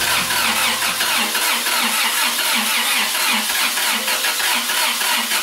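Honda VTEC engine being cranked over by its starter motor in an even rhythm of about four beats a second without catching, which the builders put down to low compression.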